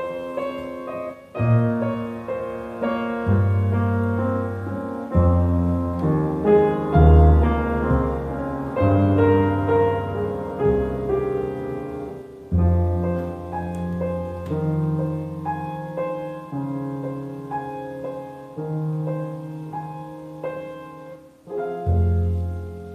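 Instrumental piano music: slow, sustained chords over a low bass note, with the harmony changing every one to two seconds.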